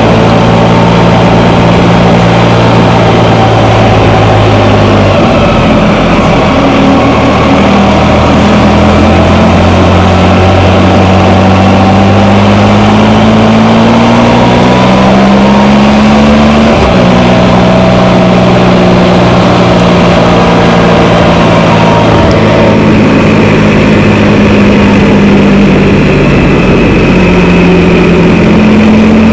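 Can-Am Spyder three-wheeled motorcycle riding on the road. Its engine note climbs under acceleration and drops sharply at a gear change about seventeen seconds in, with further shifts near the start and near the end.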